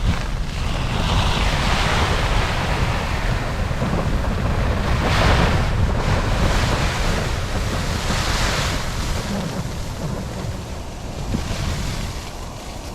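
Snowstorm wind gusting against a tent, a loud rushing noise with heavy rumble on the microphone that swells and eases several times and dies down near the end.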